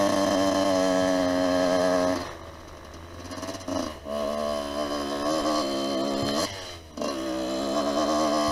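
Lifan 250 four-stroke pit bike engine running under the rider. The throttle is shut about two seconds in, leaving the engine quiet and near idle with a short blip. It then pulls again with rising revs, cuts off briefly past the six-second mark, and picks back up to a steady run.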